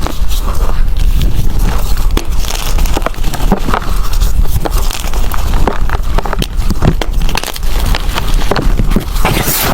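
Blocks of gym chalk crunching and crumbling as they are crushed by hand: dense, irregular crackling, with a louder crunch near the end.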